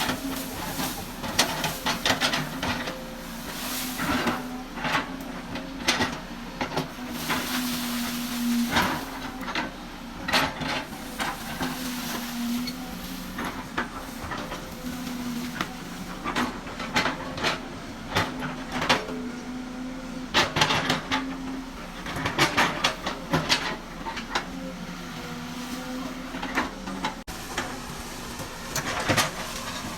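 Excavator engine running, its pitch rising and falling as it works, with frequent irregular metallic clanks and knocks.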